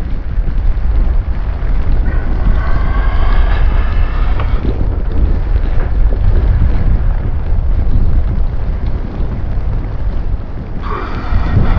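Storm wind buffeting the microphone in a loud, steady rumble. A higher-pitched sound rises above it twice, for about three seconds from two seconds in and again about a second before the end.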